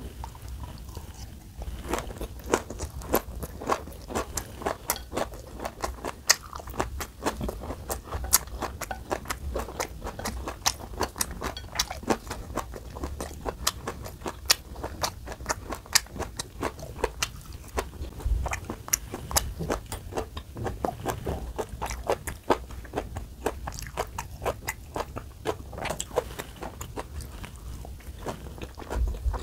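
Close-miked chewing and crunching of a fresh vegetable wrap of lettuce, bean sprouts, carrot, cucumber and cabbage with a flat dumpling. Rapid crisp crunches start about a second and a half in and go on throughout.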